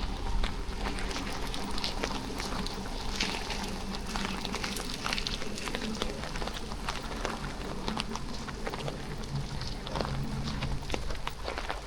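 Steady rain falling, with many sharp drop ticks over an even hiss and a low hum underneath.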